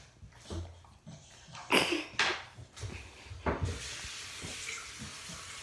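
Bathwater splashing in several short, sharp bursts, then water running steadily from a little past halfway.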